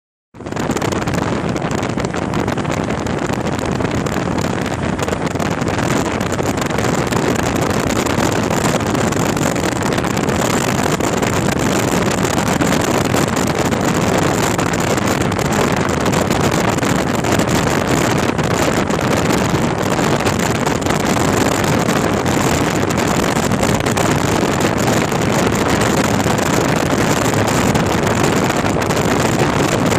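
Hero CBZ Xtreme motorcycle's single-cylinder engine running at speed, mixed with heavy wind noise on the microphone. The owner reports that the engine jerks or stalls for a moment whenever it is accelerated above 5000 rpm.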